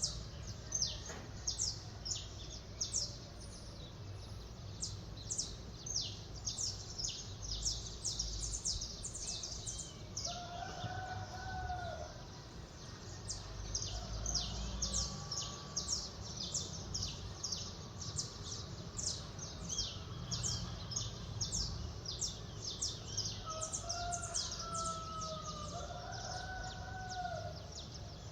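Small birds chirping rapidly and continuously in a dawn chorus, with a rooster crowing about a third of the way in and crowing again twice near the end. A steady low rumble runs underneath.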